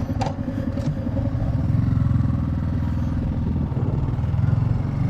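Motorcycle engine running, getting louder about two seconds in as the bike gets under way.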